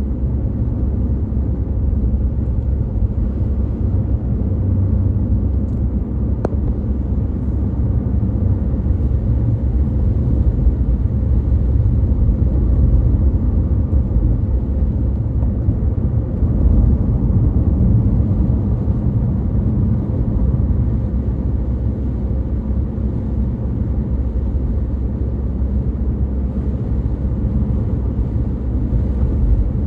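Steady low rumble of a car being driven: engine and road noise with no change in speed.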